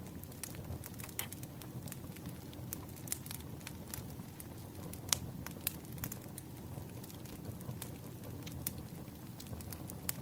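Campfire crackling: a steady low rumble of burning with frequent sharp pops and snaps, one louder pop about five seconds in.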